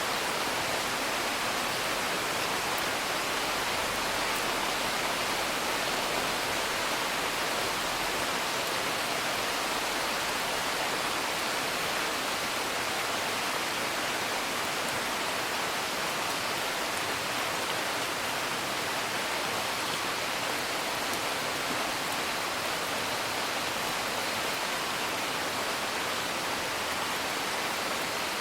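Steady, even hiss of heavy rain, with no thunder.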